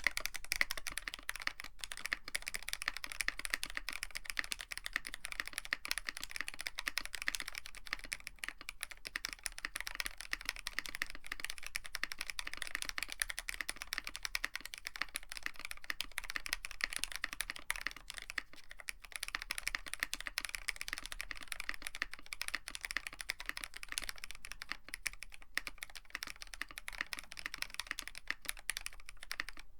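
Continuous fast typing on a Tofu65 mechanical keyboard with a brass plate and PBT keycaps: a dense, unbroken stream of keystroke clicks.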